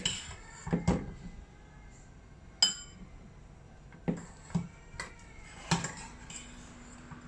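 A series of sharp knocks and clinks of hard objects such as dishes or utensils being handled, one ringing briefly about two and a half seconds in. A faint low steady hum starts near the end.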